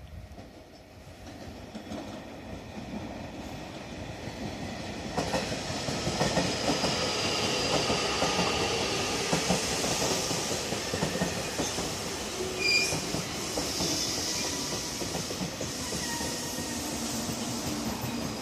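A JR Kyushu 813 series electric train pulling into the station. The rumble and clatter of its wheels on the rails grows louder over the first several seconds as it draws alongside, then holds steady as the cars roll past slowing. Thin high brake squeal runs through the middle, with a brief squeak about thirteen seconds in.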